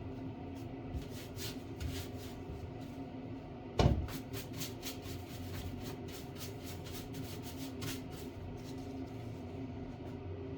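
Light clicks and handling noises of objects being moved, over a steady low hum, with one loud sharp knock about four seconds in.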